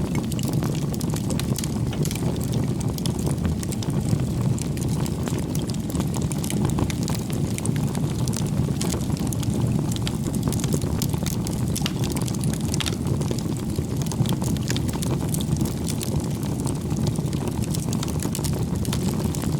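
Bonfire of firewood burning: a steady low rumble of flames with constant small crackles and pops of the burning wood.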